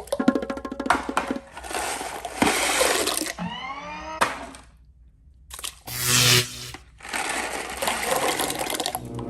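A powerful toilet flushing in several short cut-together segments: loud rushing water, broken by a brief near-silent gap about halfway through.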